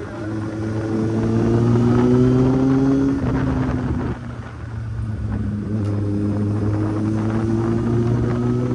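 Kawasaki Z800's inline-four engine pulling up through the revs. The pitch drops briefly about four seconds in as it shifts up a gear, then climbs again.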